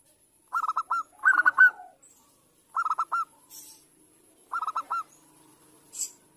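Zebra dove (perkutut) song: four quick phrases, each of three or four rapid cooing notes, followed by a short high chirp near the end.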